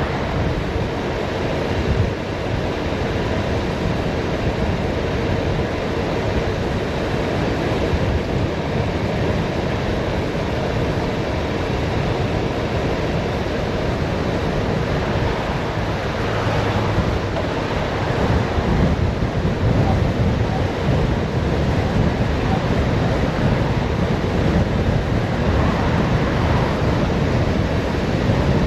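Wind rushing over the microphone of a bicycle coasting downhill at speed: a loud, steady rush that grows a little louder in the last third.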